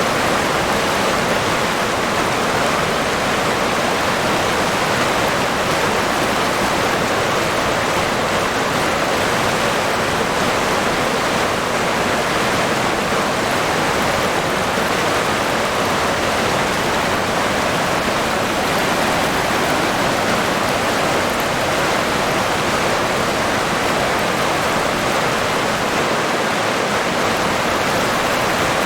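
River water rushing and burbling in a steady, unbroken flow.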